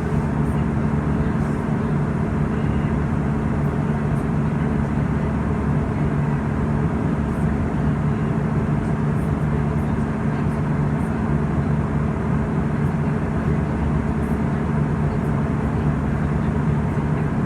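Steady cabin noise inside an Airbus A320 in flight: an even rush of engine and airflow noise with a constant low hum.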